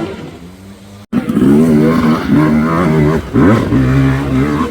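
Dirt bike engine revving hard under load, its pitch climbing and dropping repeatedly with a quick rise near the end; a quieter engine sound cuts off abruptly about a second in before the loud revving begins.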